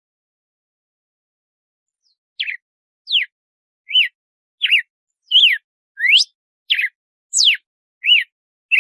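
Red-cowled cardinal (galo-de-campina) singing its 'açoite' song: a run of clear, short whistled notes, each a quick slide up or down in pitch, a little over one a second. The song starts a couple of seconds in.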